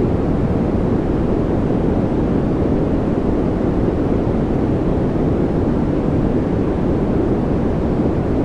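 Steady, unchanging noise played as a white-noise track, a deep even rush with most of its weight low and little hiss at the top.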